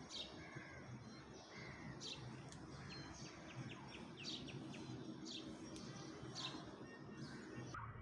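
Small birds chirping: short, sharp chirps every second or so, with a quick run of ticking calls about three to four seconds in, over a faint steady background noise.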